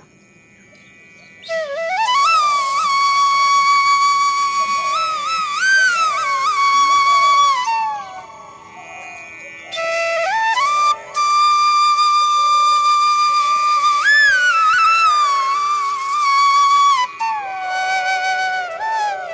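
Background music: a solo flute melody of long held notes with slides and ornaments, played in two phrases with a short lull about eight seconds in.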